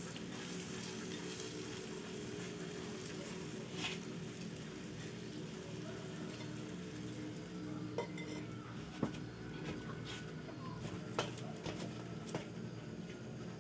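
Kitchen cooking sounds: a steady sizzle with a few sharp clinks of utensils against pots and dishes, over a low steady hum.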